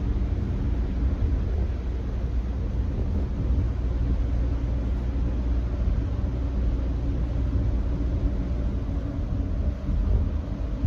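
Steady road noise from a Nissan Note e-POWER cruising at constant highway speed on a rain-wet road: a low rumble with an even tyre hiss over it.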